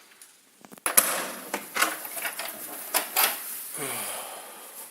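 Door lock and handle clicking and rattling as a room door is unlocked and opened, a string of sharp clicks and knocks, with a short low falling creak about four seconds in.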